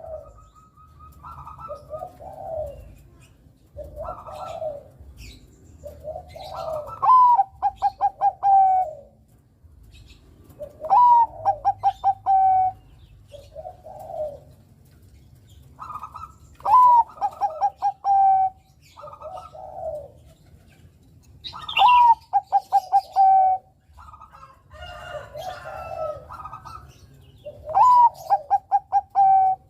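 Bangkok-strain zebra dove (perkutut) singing: every few seconds a phrase of rapid, clipped notes that runs into a drawn-out coo, with softer, lower coos between the phrases.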